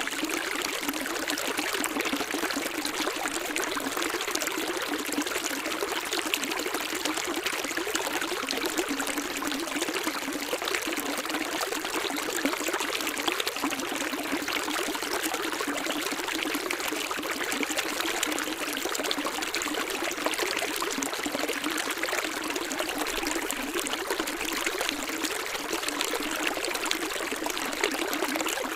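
Running water: a steady, even rush and splash of flowing water with no low rumble.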